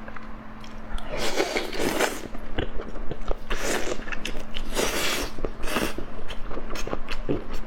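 Close-miked eating of spicy noodles, pork intestine and salmon: chewing and biting with many wet clicks, and four longer hissing sounds, the first about a second in.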